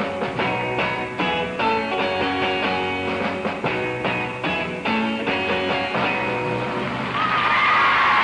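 Guitars strumming the instrumental closing bars of a rock-and-roll song in a steady rhythm. The music stops about six seconds in, and loud audience applause and cheering take over near the end.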